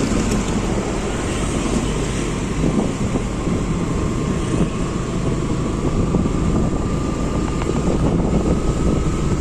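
Wind buffeting the microphone over road noise while riding a motorbike, a steady rush with a faint whine that slowly rises in pitch over the last few seconds.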